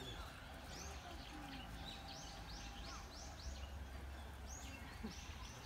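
A songbird calling: a run of short, high chirps about three a second, a pause, then a few more near the end, over a steady low background rumble.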